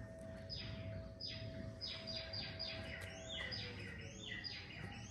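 A bird calling over and over, a rapid series of about a dozen short, harsh, downward-sweeping calls, two to three a second. A faint steady hum lies underneath and dips slightly in pitch about midway.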